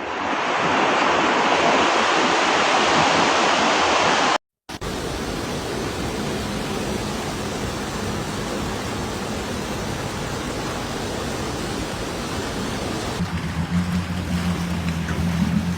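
Rushing floodwater, a loud steady rush of noise. It breaks off in a brief cut about four and a half seconds in, then the rushing goes on with a low steady motor hum joining, stronger near the end.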